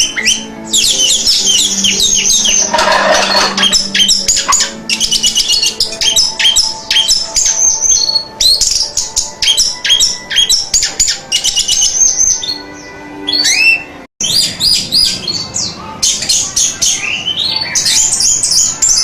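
Orange-headed thrush (anis merah) singing: a fast, varied run of high chirps and whistled phrases with hardly a pause, cut off by a brief drop-out about two-thirds of the way through before the song picks up again.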